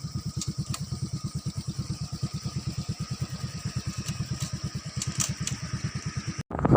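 A small engine idling with an even putter of about ten beats a second. Near the end it cuts off abruptly and gives way to loud wind buffeting the microphone.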